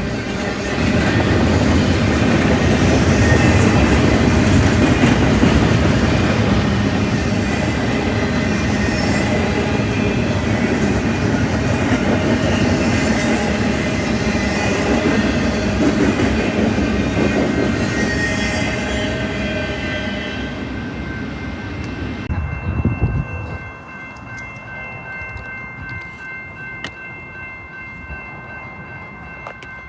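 A train passing close by: loud, dense train noise that drops off sharply about 23 seconds in, leaving a fainter steady sound with several high steady tones.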